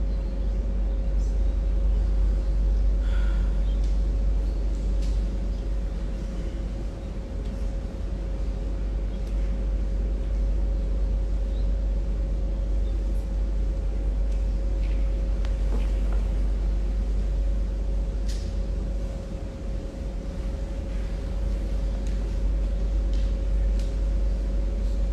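Prayer-hall background noise in the pause between prayer units: a steady low rumble under a constant mid-pitched hum, with a few faint scattered clicks and rustles.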